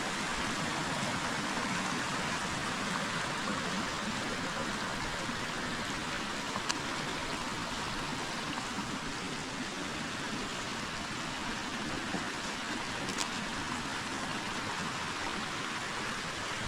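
A forest river running, a steady rush of flowing water, with a couple of faint ticks.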